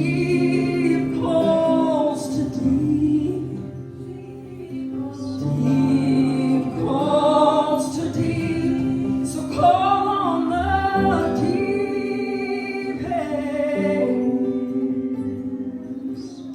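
Live worship music: sustained instrumental chords under a woman singing long, drawn-out phrases.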